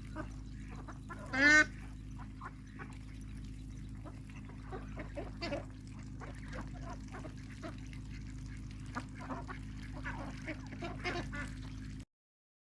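Flock of ducks calling, with many short quacks and one loud honk about a second and a half in, over a steady low hum. The sound cuts out abruptly near the end.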